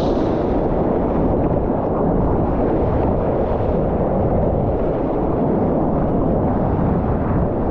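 Wind buffeting a GoPro microphone over rushing, breaking lake surf, a steady loud rumble.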